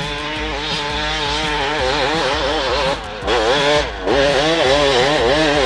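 1996 Kawasaki KX250 single-cylinder two-stroke engine being ridden, its revs rising and falling quickly, with the throttle briefly cut about three seconds in and again about four seconds in.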